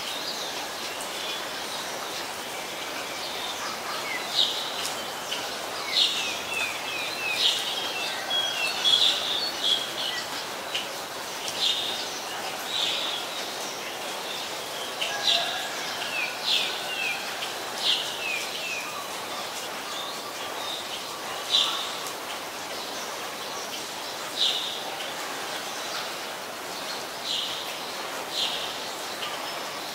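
Short, sharp bird calls every second or two, bunched most closely in the first third, over a steady hiss of rain.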